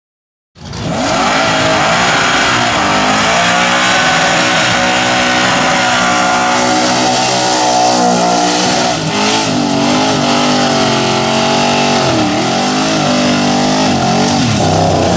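Holden VK Commodore engine revving hard and held at high revs during a burnout, with the rear tyres spinning and squealing; the revs dip and recover several times. The engine is failing under the strain, which the uploader says can be heard trying to eat itself. It starts abruptly about half a second in.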